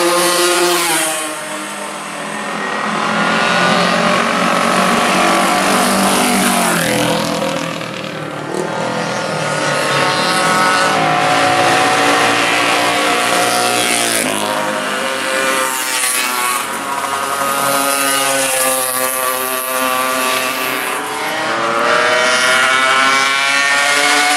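Classic racing motorcycle engine at high revs, its pitch climbing over several seconds at a time and then falling, with dips in loudness about 2 and 8 seconds in.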